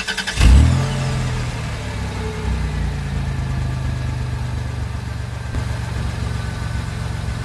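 Car engine running, heard from inside the cabin: a loud low rumble about half a second in, then a steady idle-like hum.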